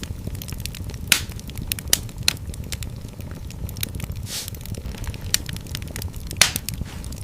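Wood fire crackling in a fireplace: a low, steady rush of flames under frequent small snaps, with louder sharp pops about a second in, around two seconds, and a little after six seconds, and a brief hissing spurt near the middle.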